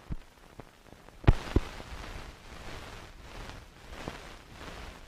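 Crackle, hiss and sharp pops of an old film soundtrack, with two loud pops close together about a second in.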